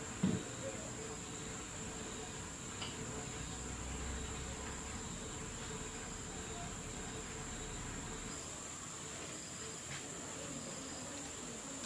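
Steady high-pitched insect trill with no breaks, and a soft knock just after the start.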